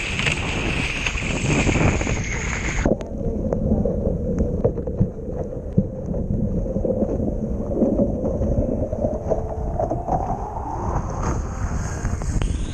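Wind buffeting the microphone with water rushing past a moving sailboat: a loud, steady rush that turns suddenly muffled and low about three seconds in, with a slowly rising tone later, and becomes full again near the end.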